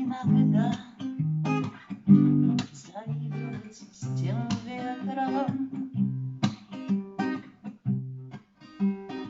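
Acoustic guitar playing the closing bars of a bard song, strummed and plucked chords, the strokes growing sparser and quieter toward the end.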